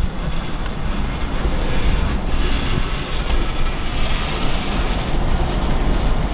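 Covered hopper cars of a freight train rolling past a level crossing: a steady rumble of steel wheels on the rails, heard from inside a car.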